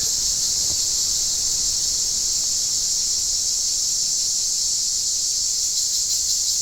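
Cicadas singing in a steady, high-pitched buzzing chorus that holds level without a break.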